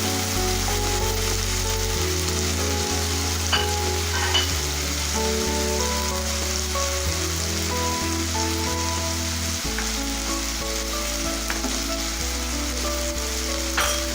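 Chopped onion and tomato frying in oil in a pan, a steady sizzle as they are stirred, with a few sharp clicks against the pan.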